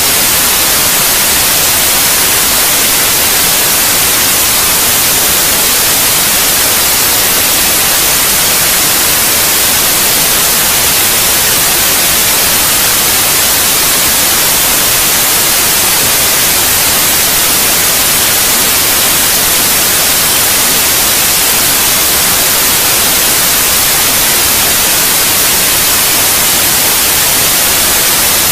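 Continuous white noise for baby sleep: a loud, even hiss that never changes, brightest in the high treble.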